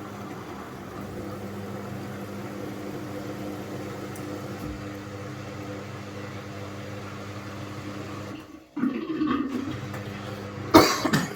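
Beko washing machine on its first rinse cycle, water running in with a steady hum. Near the end the sound drops out briefly, then comes back louder, and one sharp loud knock follows.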